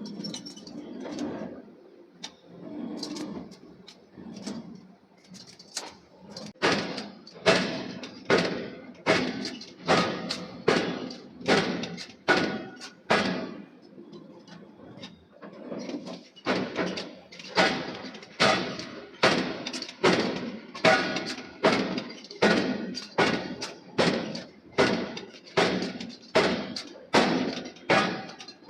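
Hammer blows forging a steel billet: heavy, evenly paced strikes about one every 0.8 s, each ringing briefly. The strikes pause for about two seconds near the middle and then resume. Softer, duller knocks come before the first strike.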